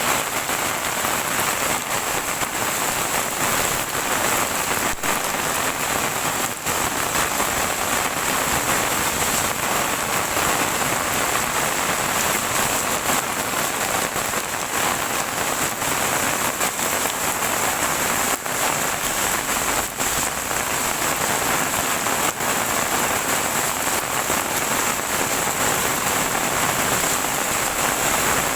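Heavy rain falling steadily, an even hiss with occasional sharper drop hits.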